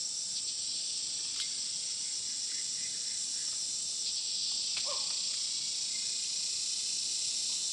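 A steady, high-pitched insect chorus, a little louder from about halfway, with a few faint short chirps mixed in.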